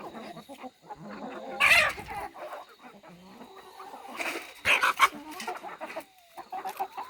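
Chickens clucking, with a few louder, sharper calls about two seconds in and again around four to five seconds in.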